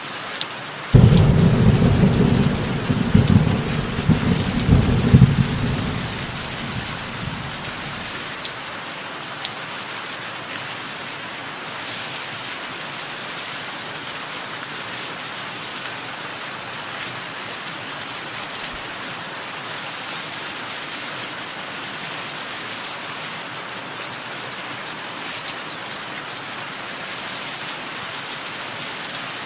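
Steady rain with a thunderclap about a second in that rumbles for several seconds and fades. Short, high bird chirps come repeatedly throughout.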